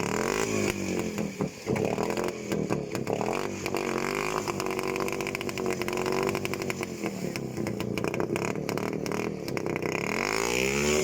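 Small off-road vehicle engine revving on and off, its pitch rising and falling several times, with a strong rev-up near the end.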